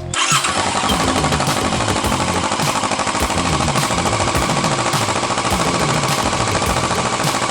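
Kawasaki Vulcan S 650's parallel-twin engine running through an Arrow sport exhaust, a loud rapid exhaust beat that starts abruptly about a third of a second in.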